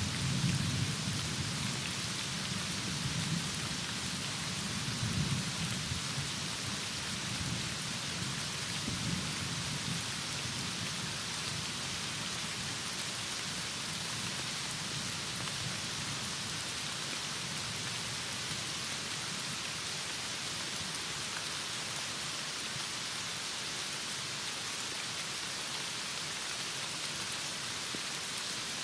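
Heavy rain falling steadily, with a low rumble of thunder at the start that dies away over the first several seconds.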